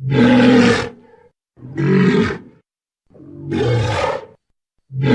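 Dinosaur roar sound effect: four loud, growling roars of about a second each, separated by brief silences.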